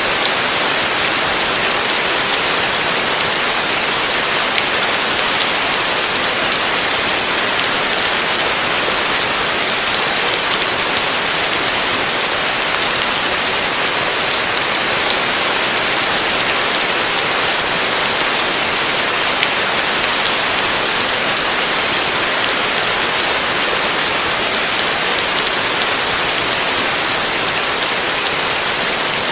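Heavy rain falling steadily on a roof, a dense, even hiss of drops.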